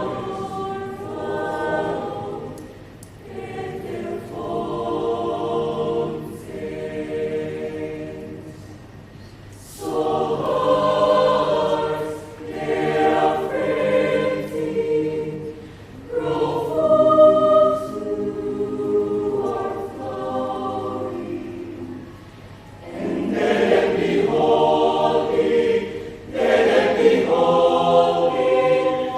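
Youth choir singing. The phrases swell and fall away, with brief dips between them.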